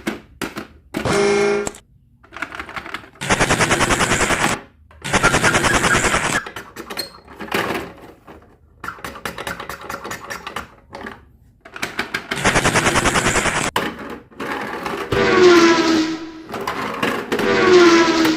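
A plastic toy clicking rapidly in several bursts of about a second each, with short pauses between. Near the end come two sounds that fall in pitch.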